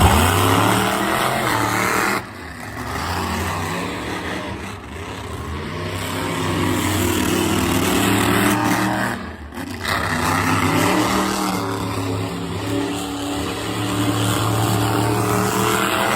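Monster truck engine running loud, its revs rising and falling, with dips near two seconds in and about halfway through.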